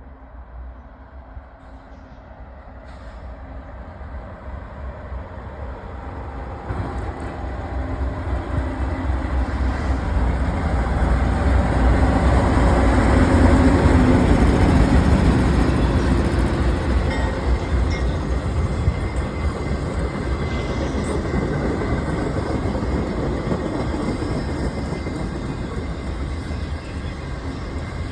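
BNSF intermodal freight train approaching and passing: a steady rumble of engines and wheels on rails grows louder over about twelve seconds, peaks near the middle, then carries on slightly lower as the train keeps rolling by.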